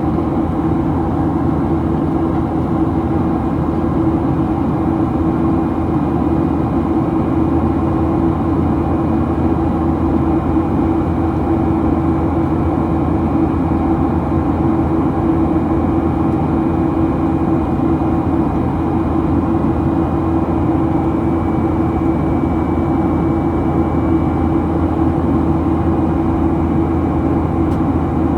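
Steady cabin drone of a Boeing 737-800, its engines and airflow, heard from a seat inside the cabin, with a constant low hum running under the rushing noise.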